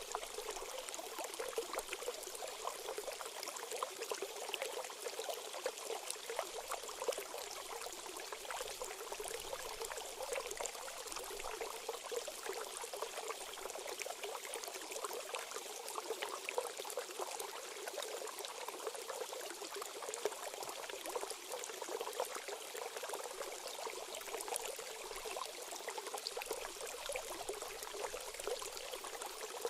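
A shallow stream running steadily, with a continuous trickling and splashing and no low rumble.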